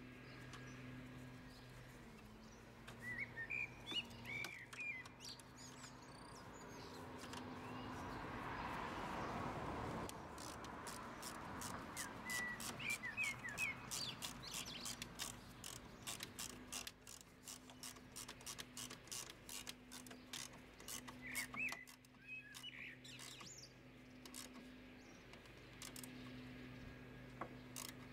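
Faint birdsong outdoors: short chirping phrases come several times. Underneath are light irregular clicks from hands and tools working in the engine bay, mostly in the second half, and a faint low hum.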